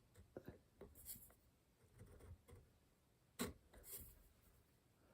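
Faint scraping strokes of a homemade checkering tool, a screwdriver blade converted into a cutter, drawn across wood. Light clicks and taps come between the strokes, with a sharper click about three and a half seconds in.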